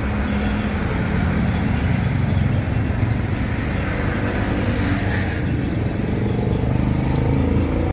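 Road vehicle engine running steadily with tyre and road noise, a low hum holding a few steady pitches.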